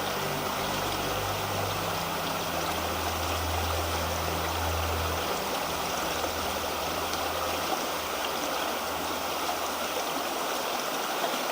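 River water flowing with a steady rush, a river running in the spring thaw.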